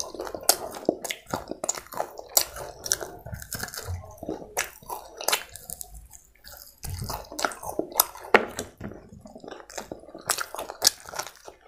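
Close-miked chewing and mouth sounds of a person eating a fried chicken lollipop, with many irregular sharp clicks as she bites and chews.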